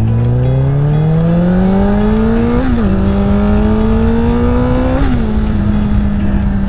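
Honda CBR1000RR sport bike's inline-four engine accelerating hard through the gears. The pitch climbs, drops at an upshift about two and a half seconds in, climbs again, drops at a second upshift about five seconds in, then holds steady at cruise.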